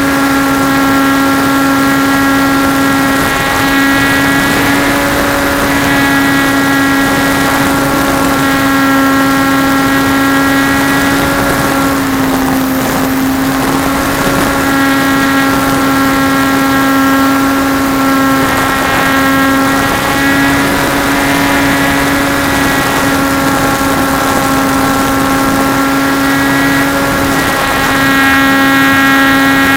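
Trojan T-28 radio-controlled model plane's motor and propeller running at a steady pitch, with wind rushing over the microphone. About halfway through, the pitch briefly wavers and the tone blurs before it settles again.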